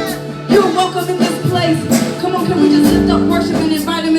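Live gospel worship music: a band holding sustained chords with drums and singing voices.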